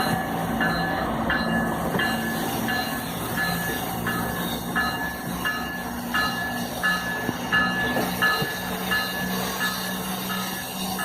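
Freight train rolling past, its wheels giving a short squeal that repeats evenly about every 0.7 s over a steady low rumble.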